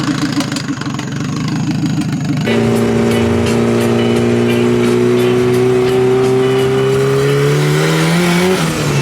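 Turbocharged Nissan KA four-cylinder in a 1993 Nissan 240 under hard acceleration on 93 pump gas. After a low rumble, the engine note jumps about two and a half seconds in and climbs steadily in pitch for about six seconds, then drops off near the end.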